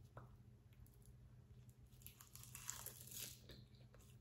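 Close-mic chewing and crunching of crisp roasted seaweed (gim) wrapped around food, with a dense patch of crackling in the middle.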